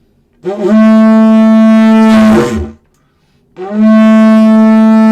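Two long trumpet-like blasts blown on a didgeridoo, each held on a steady pitch for about two seconds and sliding down at the end, imitating an elephant trumpeting.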